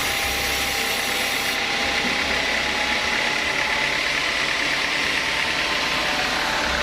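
Sawmill saw machinery running steadily with a continuous mechanical noise. A faint high whine holds through the middle.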